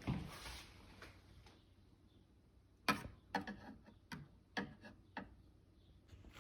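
A series of about seven sharp, irregularly spaced clicks and knocks, starting about three seconds in, as a Keurig coffee maker is handled.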